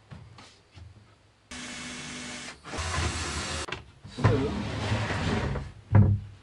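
A small electric power tool runs in bursts: a steady whine starting about a second and a half in, then two longer, noisier runs, with a sharp knock near the end.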